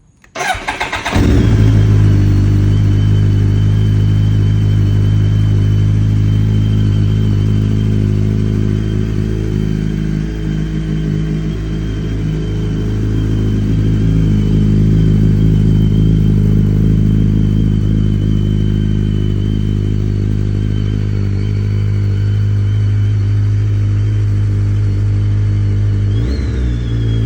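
BMW K1300S motorcycle's inline-four engine on a cold start: the starter cranks for under a second, the engine catches and settles into a loud, steady idle. Near the end the pitch briefly shifts up and back.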